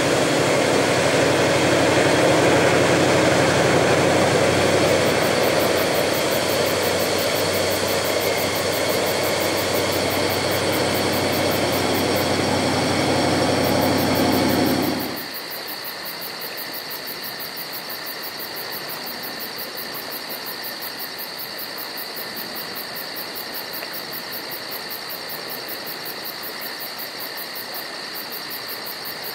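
Diesel passenger train running across a high viaduct: a loud steady rumble of engine and wheels. About halfway through it drops away suddenly, leaving a quieter steady hiss with a thin high whine.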